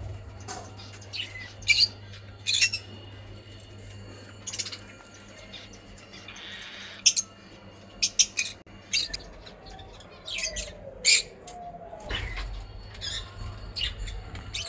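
Small pet parrots (lovebirds, conures, cockatiels) calling: short, shrill chirps and squawks at irregular intervals every second or so, over a steady low hum.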